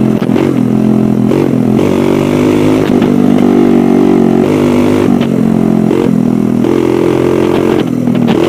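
Dirt bike engine running under way, its pitch rising and falling as the throttle is opened and eased off, with short drops every second or two.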